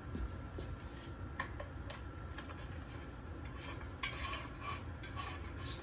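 Telescoping metal closet rod: a few light metallic clinks as the two tubes are handled, then a scraping rub over the last couple of seconds as the narrower tube slides into the wider one.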